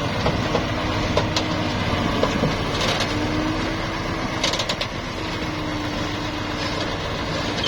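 Nissan dump truck's engine running steadily, with a held whine that wavers slightly in pitch and a few short, sharp knocks.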